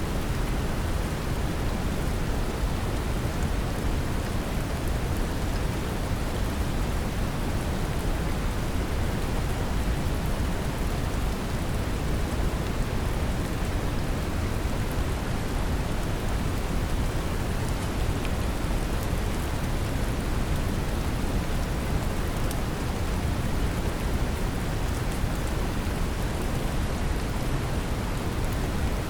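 Brown noise mixed with steady rain: a constant deep rumbling hiss with the patter of rain on top, unchanging throughout.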